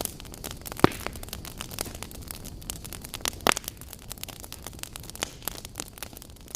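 Wood fire in a fireplace crackling, with a dense run of small pops and two louder pops, about a second in and about three and a half seconds in, over a low steady rumble of the flames.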